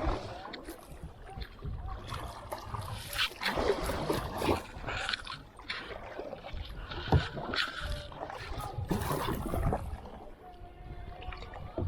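Kayak paddles dipping and pulling through creek water, splashing with each stroke in an uneven rhythm, with an occasional knock of a paddle.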